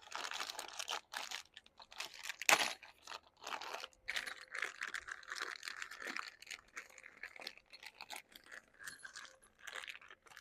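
Rummaging by hand through a bag of small parts: irregular crinkling and rustling with light clicks and clinks, one sharper rustle about two and a half seconds in.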